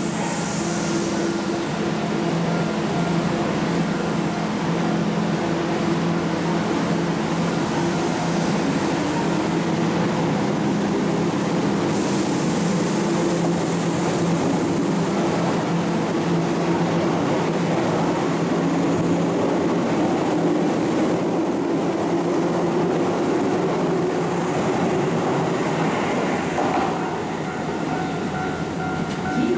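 Keihan Electric Railway electric train running: a steady rumble with a low, steady hum in it that fades about two-thirds of the way through.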